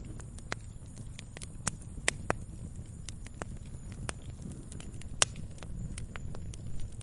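Campfire crackling: irregular sharp pops and snaps, a handful of louder ones, over a low steady rumble of the burning fire.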